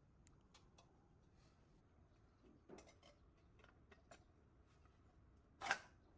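Faint scattered clicks and light taps, with a louder knock about five and a half seconds in.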